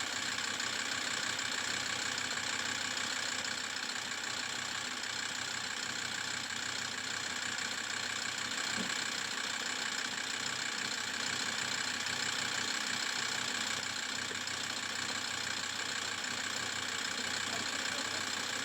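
Land Rover Td5 five-cylinder turbodiesel engine idling steadily, left running to circulate a cleaning flush through its oil-contaminated cooling system.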